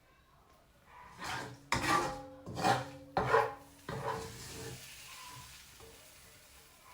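A utensil scraping and stirring in a cooking pan, about four loud strokes in quick succession, then quieter.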